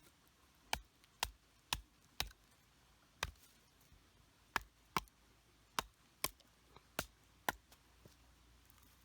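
Hatchet chopping firewood: about a dozen sharp strikes, mostly half a second apart, in short runs with brief pauses.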